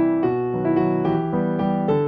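Background piano music, a gentle melody of single notes over sustained chords.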